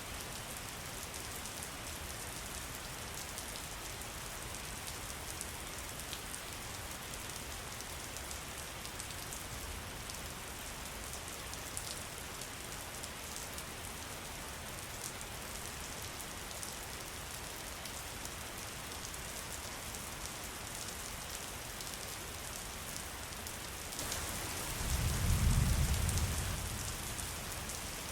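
Steady rain falling, with scattered drop ticks. About 25 seconds in, a low rumble of thunder swells and then fades over a couple of seconds.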